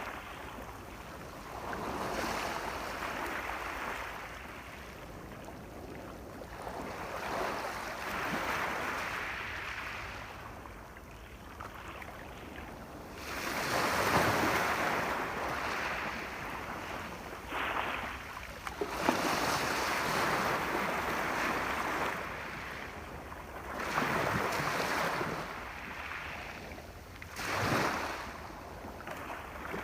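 Ocean waves breaking and washing ashore, each surge swelling and fading about every four to six seconds, with a few sharper splashes about two-thirds of the way through.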